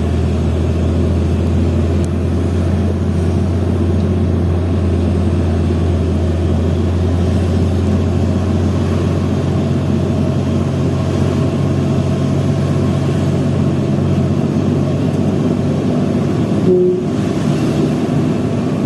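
Hino FL 260 JT truck's diesel engine running steadily under load, a continuous low drone. A brief higher tone sounds about 17 seconds in.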